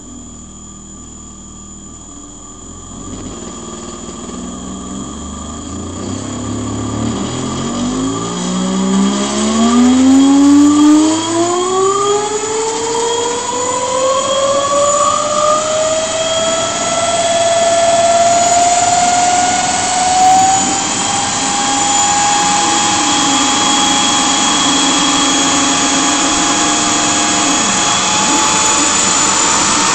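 Enertrac electric hub motor spinning up under throttle from a Kelly controller: a pitched whine that rises steadily over the first half, then levels off and holds at high speed, creeping slightly higher. The whine is loud enough to clip the phone's microphone.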